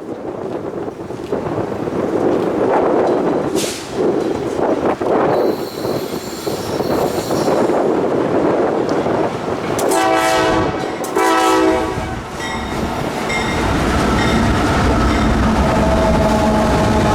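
Wind gusting on the microphone, then a diesel freight locomotive's air horn sounding two short blasts about ten seconds in. The locomotive's engine rumble then builds steadily as the train draws near.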